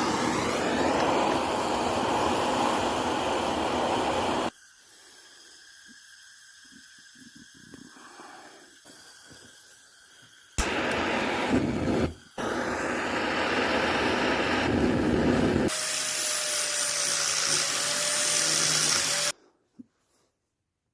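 Power tool, typical of a drill or grinder working out a broken bolt, running in several bursts separated by abrupt cuts, with a quieter stretch in the middle, then it stops near the end.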